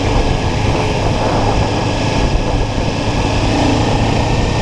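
Kawasaki Ninja 400's parallel-twin engine running steadily under way, with steady wind rush over the microphone.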